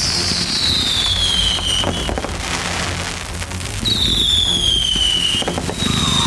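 Consumer fireworks show being fired: two high whistles falling in pitch, each about a second and a half long, with a third starting near the end, over a few sharp pops and a steady low rumble.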